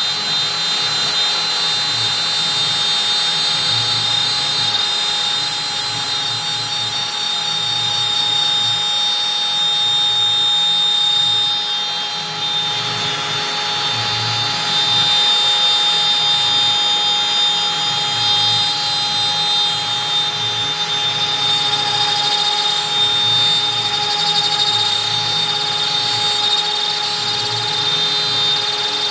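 Stepcraft M1000 CNC router's spindle running at 25,000 rpm with a steady whine while a 4 mm up-down compression bit cuts through beech, the cutting noise varying as it follows the contour.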